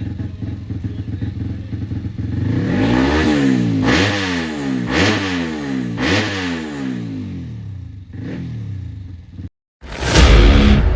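Motocross bike engine idling, then revved up and back down about four times, roughly once a second. Near the end it cuts out and loud music starts.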